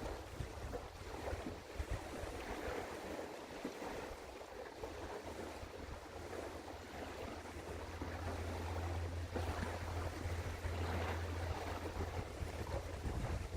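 Outdoor river ambience: wind buffeting the microphone and water noise, with a low steady rumble that grows louder in the second half.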